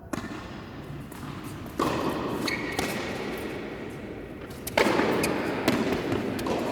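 Tennis ball being struck by rackets and bouncing on a court during a doubles rally: a series of sharp pops about a second or more apart, the loudest coming a little under two seconds in and again near five seconds in.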